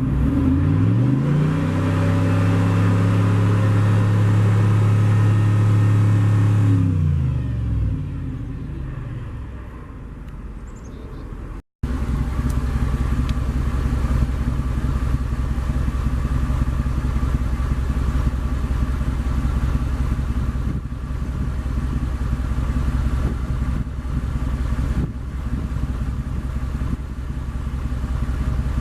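2003 Mercedes G500's 5.0-litre V8 revved up, held at raised revs for about five seconds and let fall back to idle. After a brief cut it idles steadily with a deep rumble.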